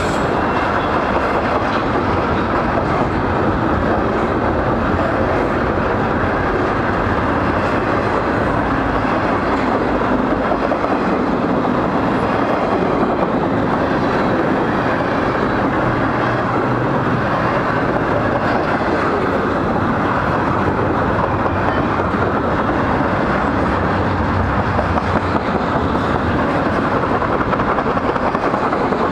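Freight train cars rolling past: a steady, loud rumble and rattle of steel wheels on the rails as autorack cars and then container-carrying intermodal well cars go by.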